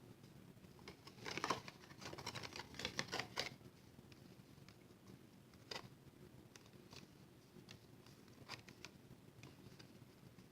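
Quiet handling of paper and card: a flurry of light rustles and taps between about one and three and a half seconds in, then a few single clicks.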